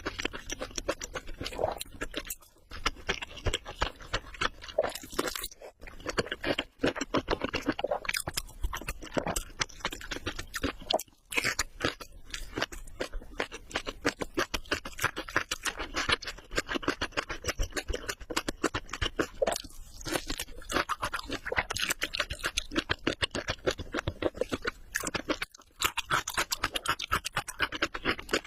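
Someone chewing crispy fried prawns: a steady run of crunching bites with a few brief pauses between mouthfuls.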